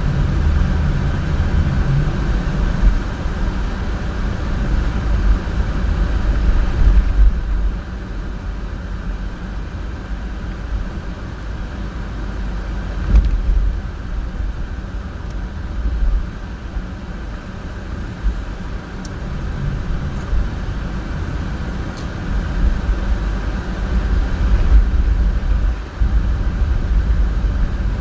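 Car driving on a snowy road: a steady low rumble of engine and tyre noise, with a couple of brief louder bumps partway through.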